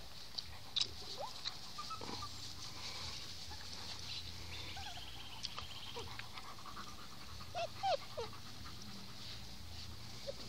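White Swiss Shepherd puppies whimpering, with short high squeaks scattered throughout and the loudest few near the end, over sharp little clicks and a faint low hum.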